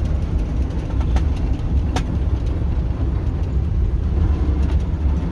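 The TU6A narrow-gauge diesel locomotive's YaMZ-236 V6 diesel engine running under way, a steady low drone heard from inside the cab. There is a sharp click about two seconds in and a few fainter ones.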